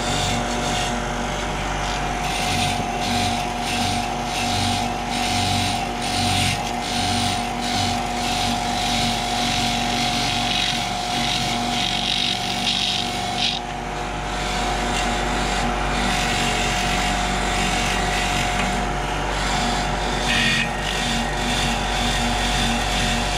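An electric power tool running steadily while grinding an engine exhaust valve, a constant motor hum under a grinding hiss that lightens about halfway through.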